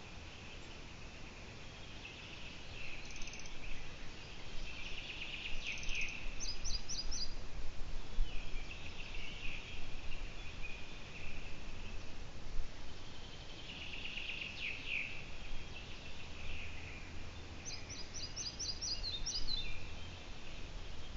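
Birds calling: repeated high, rasping call bouts, with two quick runs of short, very high chirps.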